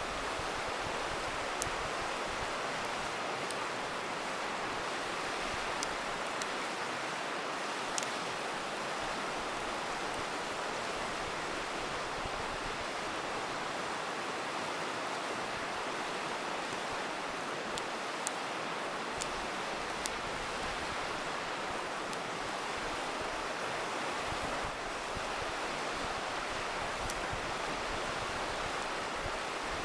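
River water rushing steadily, with a few sharp pops and crackles from a wood campfire scattered through.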